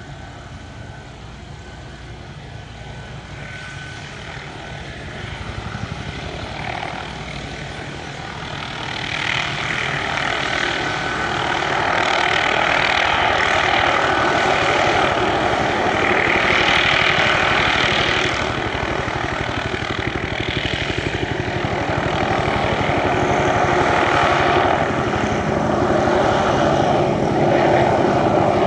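Little Bird (MD 500-family) helicopter running, growing louder over the first dozen seconds, then holding loud with some swells in level.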